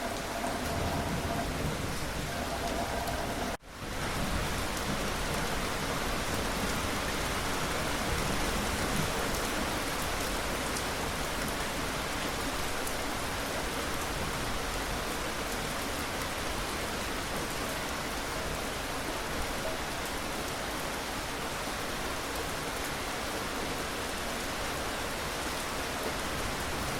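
Steady rain falling, an even hiss of drops. About three and a half seconds in the sound cuts out for a moment and comes straight back.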